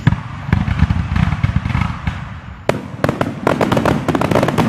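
Aerial fireworks going off: a sharp bang right at the start, then rapid crackling pops, another bang nearly three seconds in, and dense crackling after it from a glittering crackle shell.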